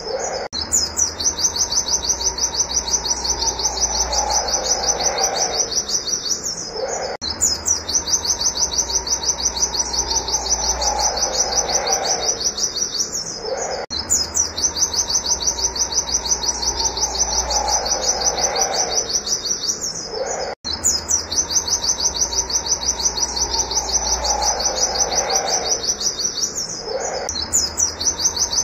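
White-eye (pleci) singing a fast, unbroken run of high 'wit wit' notes, a monotonous rapid-fire series. The same stretch of song, with a lower warbling phrase in it, repeats about every seven seconds.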